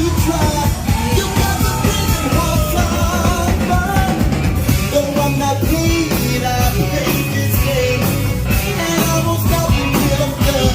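Live band playing an upbeat rock-and-roll blues number, with a steady driving beat and a melodic lead line over it.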